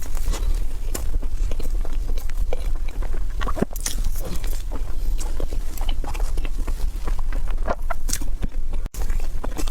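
A person biting and chewing crunchy food, with many irregular crisp crackles over a steady low hum; the sound drops out briefly near the end.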